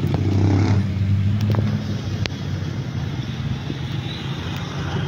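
Rain falling with a vehicle engine running steadily close by, and a few sharp taps scattered through.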